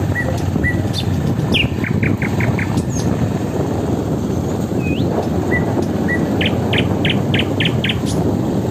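A forest bird singing the same phrase twice: a rising note, a few short whistles, then a quick run of five to seven notes. Under it runs the loud, steady low rumble of wind and riding noise from a moving motorcycle.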